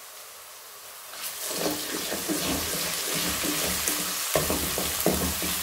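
Onions and ginger-garlic paste sizzling in hot oil in a metal wok, with a wooden spatula stirring and scraping through them. The sizzle gets louder about a second in, when the stirring starts.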